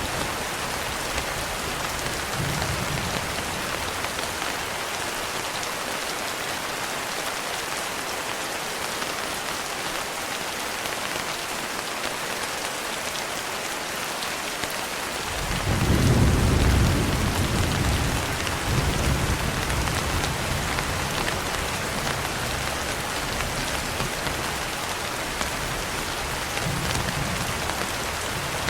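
Steady rain with rolling thunder. A faint rumble comes a few seconds in, then a loud rumble about halfway through that lingers and fades slowly, and another faint rumble near the end.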